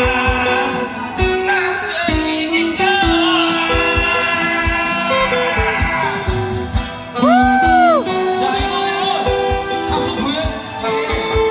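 A man singing a song live over an instrumental backing track with a regular drum beat. About seven seconds in, a loud held note rises and falls back.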